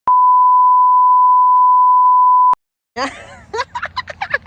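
A loud, steady single-pitch beep tone, like an edited-in bleep, lasting about two and a half seconds and cutting off abruptly; about half a second later voices start talking.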